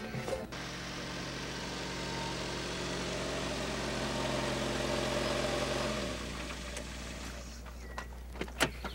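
Mercedes-Benz W123 estate car's engine running as the car rolls slowly, its pitch falling about six seconds in as it slows and settles to a quieter idle. A few sharp clicks near the end.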